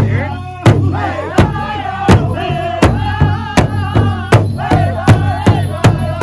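Powwow drum group: singers strike one large shared drum in unison under high, wavering group singing. The beat is steady at first and quickens to about three strikes a second around four seconds in.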